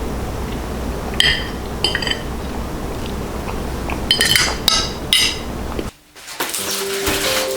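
Dishes and glassware clinking against each other a few times over a steady low hum. About six seconds in, the sound cuts off abruptly and background music begins.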